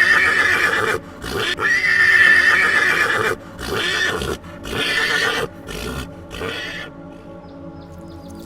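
A horse whinnying: a run of loud, high neighs, the first two long and the later ones shorter and weaker, dying away about two-thirds of the way through.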